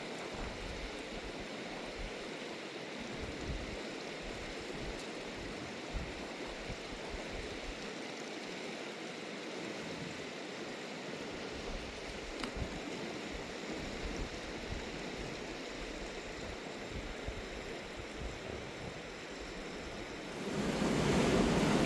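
Fast-flowing mountain river rushing steadily over rocks, with low irregular rumbles underneath. It grows louder shortly before the end.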